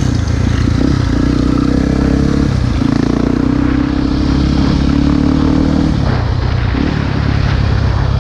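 Single-cylinder four-stroke engine of a Honda XR250 Tornado motorcycle running under way, its note holding fairly steady with small shifts in pitch and easing off about six seconds in.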